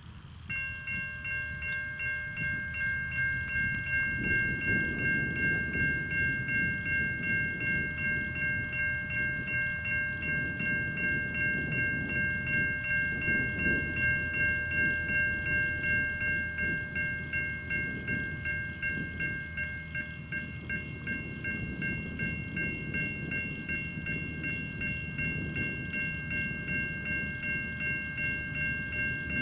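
Safetran Type 3 electronic crossing bells start ringing about half a second in, a rapid repeated bell tone as the level crossing activates, with a low rumble underneath.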